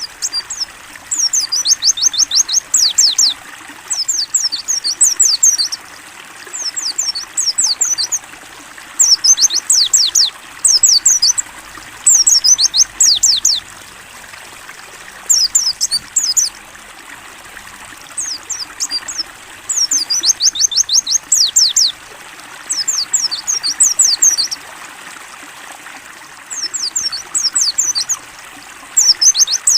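White-eye (pleci) singing in repeated bursts of rapid, high, downward-sweeping chirps, each burst lasting a second or two with short pauses between, over a steady trickle of running water.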